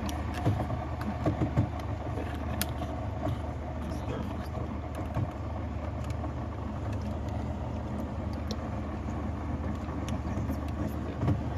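A car running, heard as a steady low engine and road hum, with a few short clicks about half a second, a second and a half, and two and a half seconds in, and again near the end.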